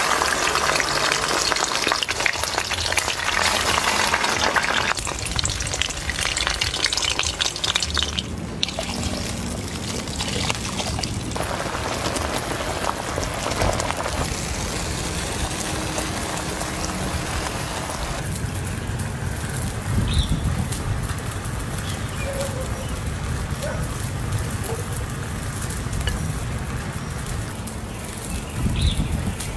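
Meat frying and sizzling in a wok, with liquid in the pan bubbling and being stirred. The hiss changes in character every few seconds.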